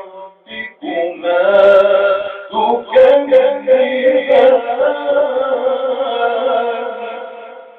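A man reciting the Quran in a melodic, drawn-out chanting style, with short phrases followed by one long held note that wavers in pitch and fades out near the end.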